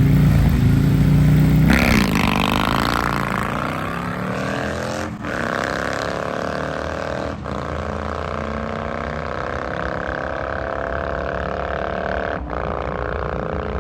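Drag-racing motorcycle launching and pulling hard down the strip, its engine note climbing steadily and breaking briefly three times at the gear changes.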